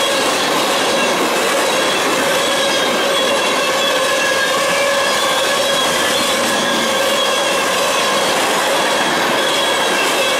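Empty railroad tank cars of a freight train rolling past at close range: a continuous loud rumble of steel wheels on rail, with steady high ringing squeal tones from the wheels.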